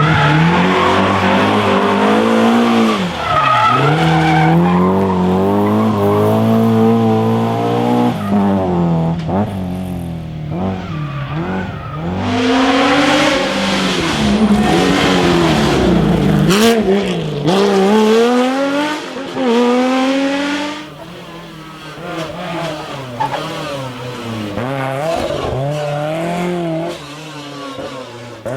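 Historic rally car at full throttle on a special stage. The engine climbs in pitch through each gear, with short dips at the changes, and there is a sharp crack about sixteen seconds in. It gets quieter after about twenty seconds as the car moves off.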